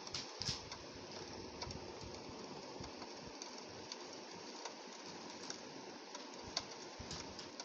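Rain on a window pane: a steady hiss of rainfall with scattered drop taps on the glass, a few louder ones, the sharpest about six and a half seconds in.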